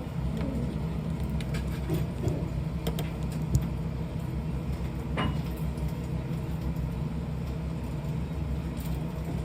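A steady low hum, with a few faint clicks and taps over it, one sharper tap about three and a half seconds in.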